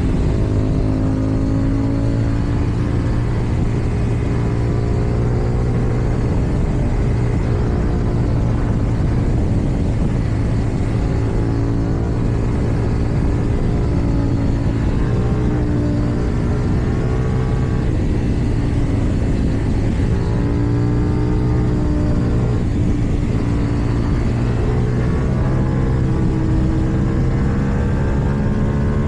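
KTM Duke 790's parallel-twin engine running under way, its pitch rising and falling again and again as the bike speeds up and eases off.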